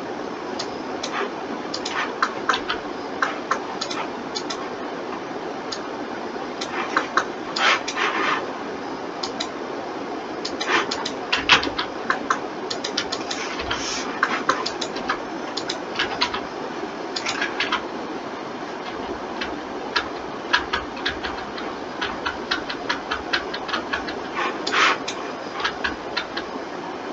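Irregular sharp clicks, single and in quick runs, of a computer mouse and keyboard being worked, over a steady background hiss.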